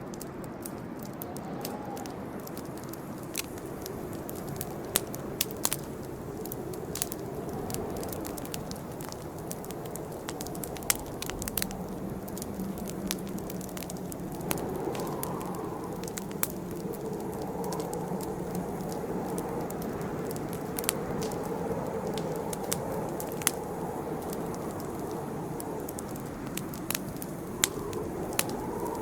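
Campfire crackling: irregular sharp pops and snaps of burning wood, a few louder than the rest, over a steady low rush of the flames.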